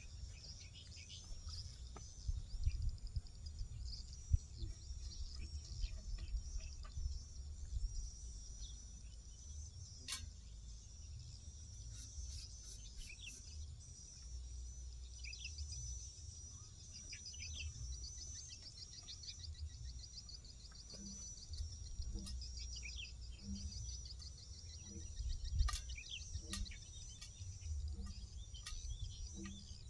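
Rice-field ambience: a steady high chirring with many small birds chirping through it, over a low wind rumble on the microphone, with a few sharp clicks.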